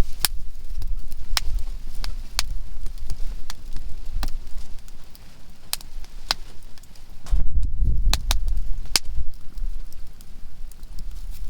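Conifer firewood burning in a campfire, popping with sharp, irregular cracks about once a second. A low rumble swells briefly about halfway through.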